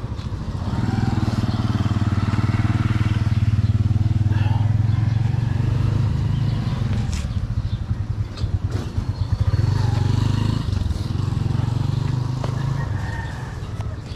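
A motor vehicle engine running with a steady low hum. It gets louder about a second in, dips briefly around the middle, then eases off near the end.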